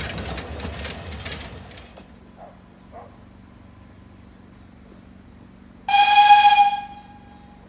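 Rattling of a narrow-gauge train running fades away over the first two seconds. About six seconds in, a steam locomotive's whistle gives one loud blast of about a second, its tone trailing off afterwards.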